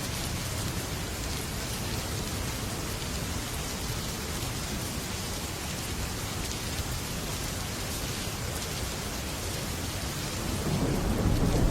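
Heavy rain falling steadily on a metal roof, a dense even patter. Near the end a low thunder rumble swells in and grows louder.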